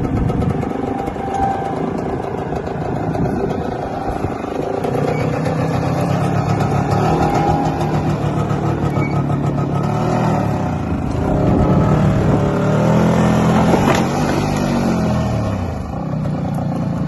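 Pit bike engine running and being revved, its pitch rising and falling several times in the second half.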